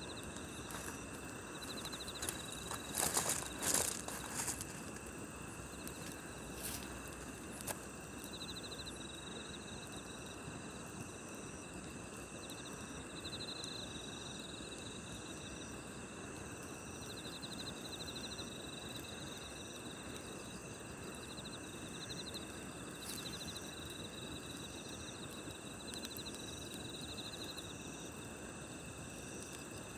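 Night insects such as crickets trilling steadily, with short pulsed chirps repeating every second or two, over the soft hiss and crackle of a wood campfire. A burst of louder pops and crackles from the fire comes about three to four seconds in, with a few single pops later.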